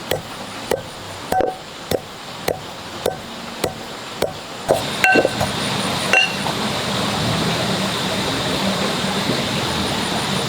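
Steady rhythmic knocking, a little under two strikes a second, of a hard utensil on a hard surface. About halfway through come two ringing clinks, then a steady hiss takes over.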